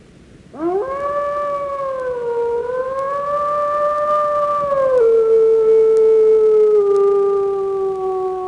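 Wolf howling: one long howl that swoops up at the start, holds with a slight waver, then drops to a lower pitch about halfway through and slides slowly down.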